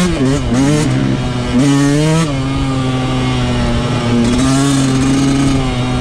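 Yamaha YZ125 two-stroke dirt bike engine being ridden hard. The revs rise and fall with the throttle over the first two seconds, then hold a steady high pitch, with a brief small rise about four and a half seconds in.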